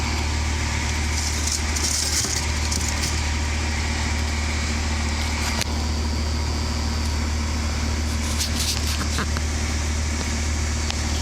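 A steady low mechanical hum, like an engine idling or a machine running, with a few brief rustling or scraping noises over it.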